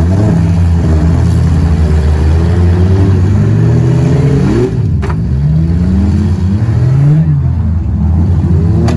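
Several car engines running together in a race, revving up and dropping back over and over as they accelerate and change gear, with a short sharp knock about five seconds in.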